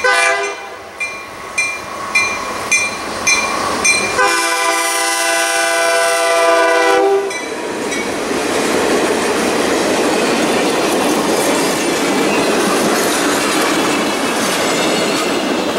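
EMD E8 diesel locomotives sounding their air horn for a grade crossing: a short blast at the start, then a long blast about four seconds in, held for about three seconds, over a crossing bell ringing at an even beat. Then the locomotives and passenger cars roll by with steady wheel and rail noise.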